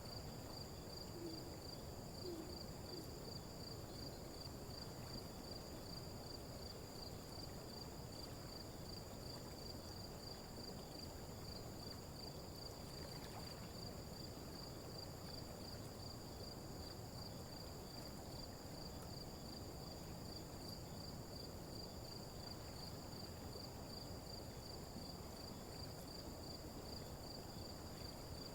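Faint nature ambience: a steady, finely pulsing high-pitched insect chorus, like crickets, runs throughout, with two short low calls about a second apart near the start.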